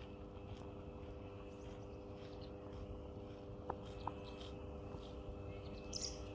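Faint, scattered calls of waterbirds on a lake over a steady low hum, with a couple of small clicks in the middle.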